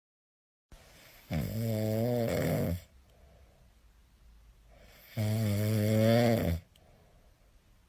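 A cat snoring: two long, slightly wavering snores about four seconds apart, each followed by a faint breath.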